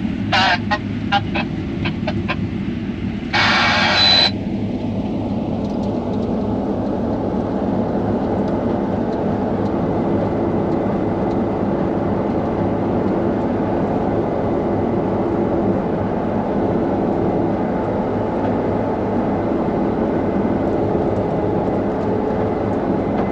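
Combine harvester running steadily under load, heard from inside the cab as an even machine drone. A few clicks come in the first couple of seconds, and a loud hiss lasts just under a second about three seconds in.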